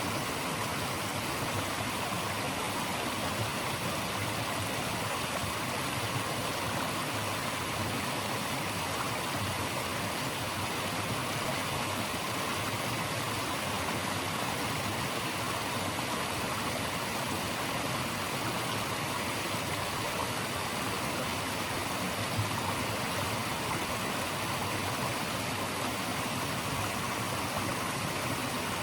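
Running water rushing steadily, an even, unbroken hiss with no other events.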